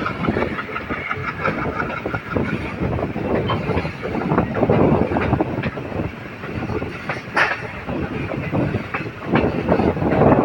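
Moving passenger train: a steady rumble of the running train, with the wheels clacking irregularly over rail joints.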